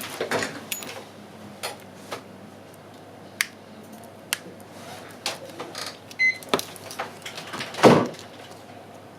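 Scattered light clicks and taps of small tools and parts being handled during an iPhone 6 screen replacement, with a short high beep about six seconds in and a louder knock near the end.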